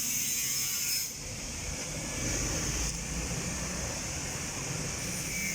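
Motorcycle engine idling through its newly fitted muffler, a steady low rumble. A hiss over it drops away about a second in.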